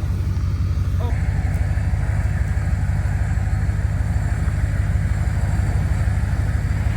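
Truck engine running with a steady low rumble, and an electric winch motor starting about a second in and running on as it hauls a stuck car out.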